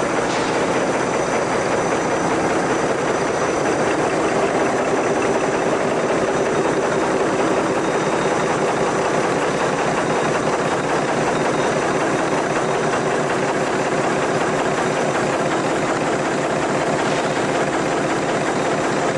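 Prototype magnetic engine with a permanent-magnet drum and permanent-magnet pistons turning its pulleys, running steadily with an even, dense mechanical rattle.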